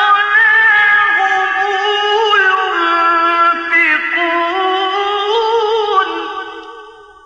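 A man's voice chanting Quran recitation (tajweed) in a high, ornamented melodic line, holding long wavering notes. It trails off near the end.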